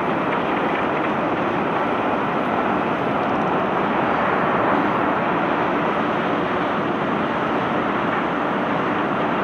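Steady, dense rushing noise of a barge's cobblestone cargo being unloaded, even throughout with no single knocks standing out.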